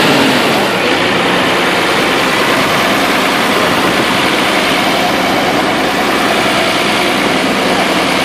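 Tractor engine running loud and steady close by, just after being started.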